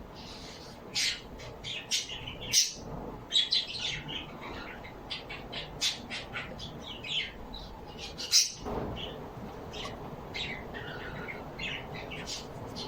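Many small birds chirping and squawking, short high calls overlapping at an irregular pace, with a couple of louder squawks.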